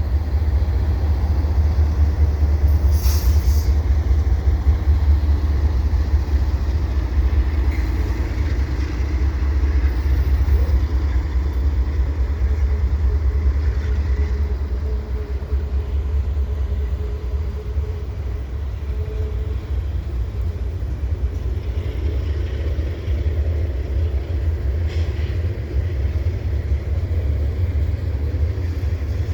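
CN mixed freight train passing, led by ES44DC and C44-9W diesel locomotives, with a steady low rumble.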